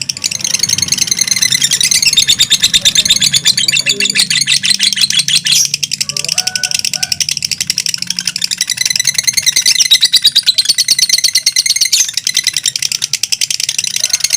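Lovebirds (mentil type) chattering in a long, unbroken, rapid high-pitched trill, the 'ngekek' song of fighter lovebirds, with two birds going at once.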